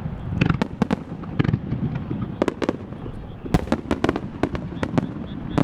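Japanese starmine fireworks barrage: aerial shells bursting in quick, irregular succession, many sharp bangs and cracks, several clustered together, over a continuous low rumble.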